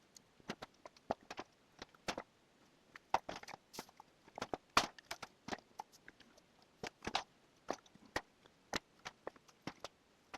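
A series of irregular, sharp clicks and knocks, one to three a second, with no steady sound between them.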